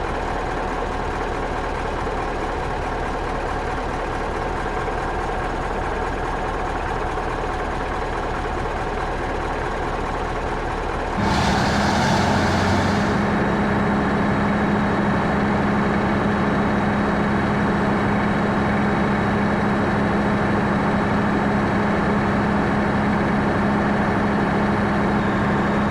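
Ship's engine running steadily after a cold start. About eleven seconds in there is a brief hiss, and the sound steps up to a louder, steady hum with a strong low drone.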